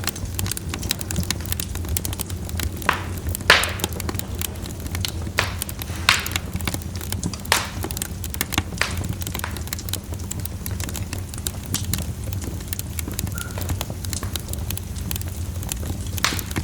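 Wood fire burning in a fireplace: a steady stream of small crackles with a few louder, sharper pops, the loudest about three and a half seconds in, over a low steady rumble.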